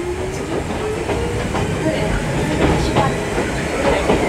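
Inside the carriage of an Ichibata Electric Railway 2100-series electric train under way: wheels rumbling and clicking over the rails, with a motor whine rising in pitch over the first second and a half as the train picks up speed.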